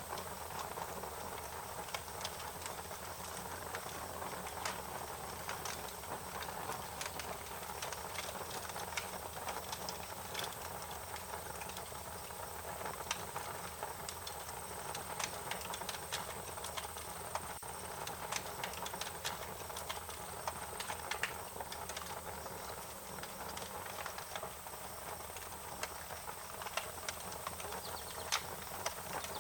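Wood fire crackling, with irregular sharp pops and snaps over a steady background hiss.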